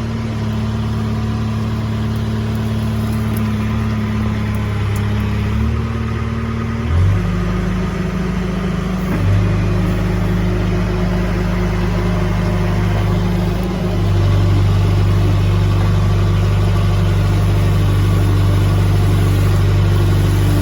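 Heavy-equipment diesel engine running steadily, its pitch changing in steps a few times as the engine speed is changed, a little louder for the last few seconds.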